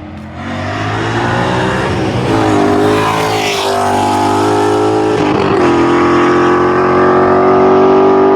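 A car engine revving hard, its pitch climbing about half a second in. The revs dip briefly twice, then are held steady and high for several seconds.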